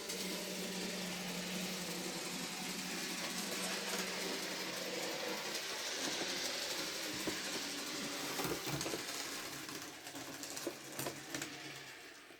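N gauge model train running on the track: a steady electric-motor whir with wheel-on-rail noise and a few clicks, dying away over the last couple of seconds.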